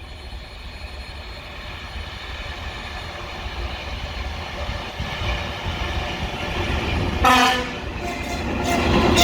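Diesel locomotive approaching on the rails: a low engine and wheel rumble that grows steadily louder, then two short horn blasts, one about seven seconds in and another right at the end.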